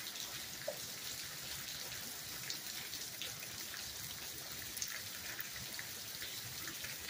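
Steady rain falling on a gravel yard and into shallow puddles: an even hiss full of small drop ticks, with an occasional louder tap.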